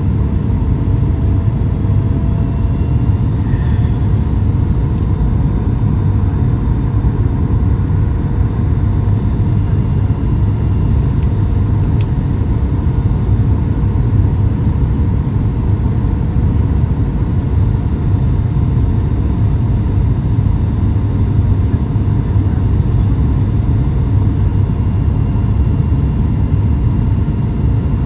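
Steady cabin noise inside a Boeing 737 MAX 8 airliner: a constant low rumble of airflow and its CFM LEAP-1B engines, with faint steady tones over it.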